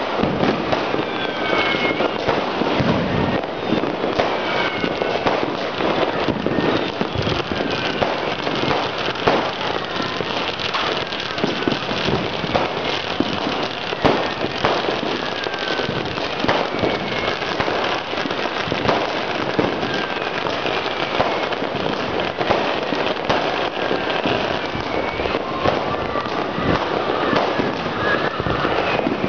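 Massed firecrackers and fireworks going off without a break in a dense, continuous crackle of cracks and bangs. Short whistles rise and fall through it now and then.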